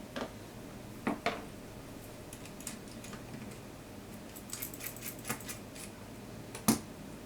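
Small metal clicks and taps of tools and parts being handled while a Seagull 4A twin-lens reflex camera is taken apart. There are two clicks about a second in, a flurry of light ticks around the middle, and one sharper click near the end, the loudest.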